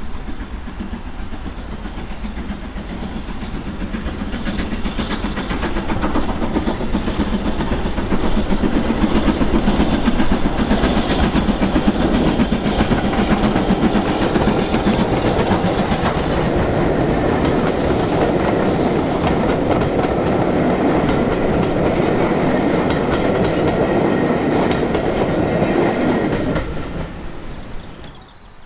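A train running past close by, its wheels clicking over the rail joints. The sound swells over the first several seconds, holds steady, then drops away near the end.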